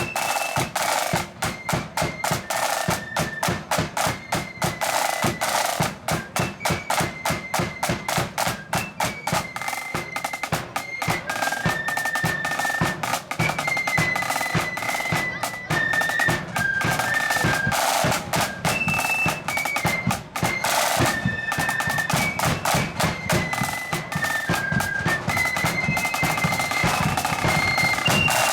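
Marching flute band playing a tune: high, shrill flutes carry the melody over rapid snare drum rolls and bass drum beats.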